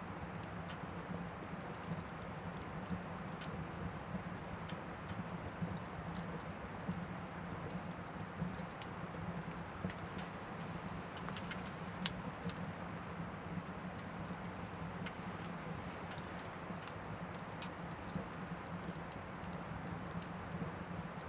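Anevay Frontier Stove Plus wood-burning stove with a steady oak-wood fire: a continuous rush of flame with scattered crackles and pops, one sharper pop a little past halfway.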